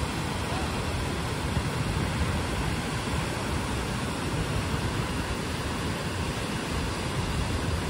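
A steady, loud rushing noise with no clear pitch and no distinct events.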